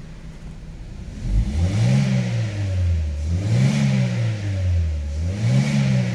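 2009 Chevrolet Lacetti's four-cylinder engine, parked, revved three times from idle to around 4,000 rpm. Each rev rises and falls in pitch, the first starting about a second in.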